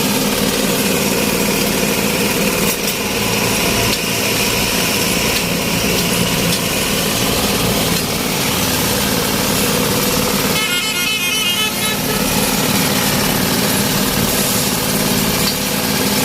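Engine-driven vibrating ballast tampers running steadily, their tines compacting the stone ballast under the track. A brief warbling horn-like tone sounds about ten and a half seconds in.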